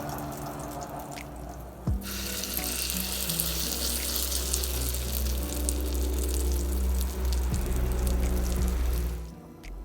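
Water running from a kitchen tap, then about two seconds in food starts sizzling as it fries in a pan, a dense steady hiss that drops away shortly before the end.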